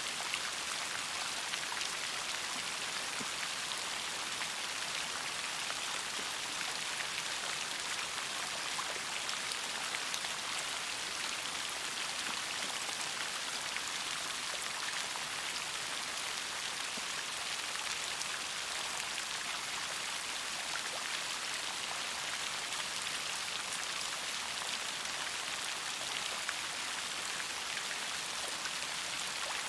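Steady rain falling, a constant hiss of many drops with fine individual drop ticks throughout.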